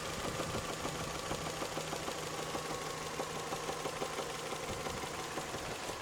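Toyota 3S-FE inline-four engine idling warm, with a rapid, uneven knocking running through it. The knock appears once the engine is warm; its cause is unknown, and mechanics say it sounds like neither valves nor bearing shells.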